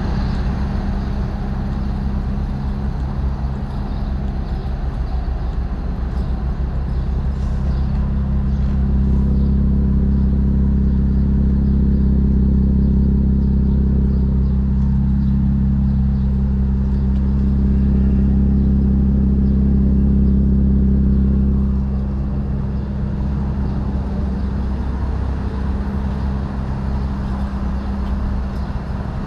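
Infiniti Q50 Red Sport 400's twin-turbo 3.0 L V6 running at a steady engine speed through a Motordyne cat-back exhaust and AMS lower downpipes. It gets somewhat louder from about a third of the way in to about three-quarters through, then settles back.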